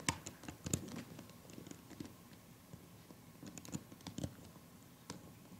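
Faint, scattered clicks and taps of a loom hook against a plastic loom as rubber bands are picked up and looped over the pegs, with a small cluster of clicks about four seconds in.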